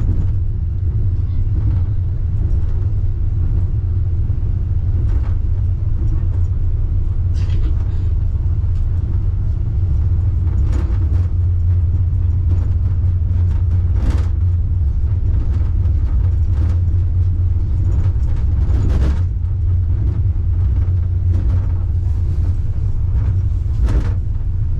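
Steady low rumble of a Wuppertal Schwebebahn suspension railway car running along its overhead track, heard from inside the car, with several brief sharp knocks along the way.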